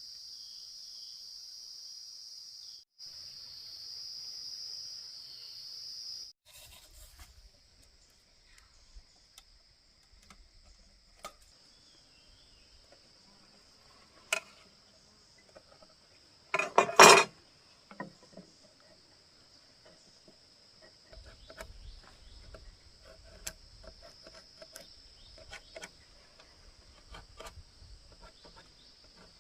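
Insects chirring in one steady high note, loud for the first six seconds with a brief break, then faint behind scattered small clicks and knocks. There is one loud double knock a little past halfway.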